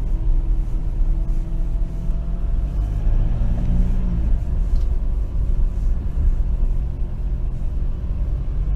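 Steady low rumble of a vehicle engine running, heard from inside the cab, with a few faint tones drifting slowly in pitch.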